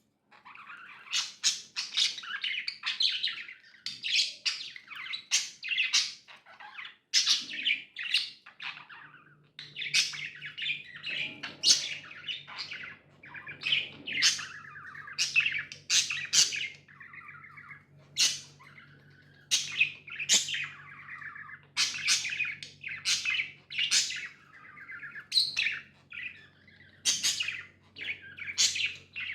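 Pet budgerigars (budgies) chirping: a steady string of sharp, high calls, several a second, with softer warbling chatter in between.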